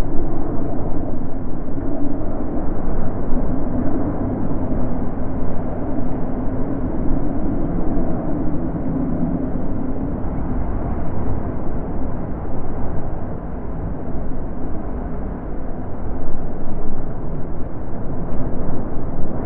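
Wind blowing in a low, steady rush that swells and eases in slow gusts.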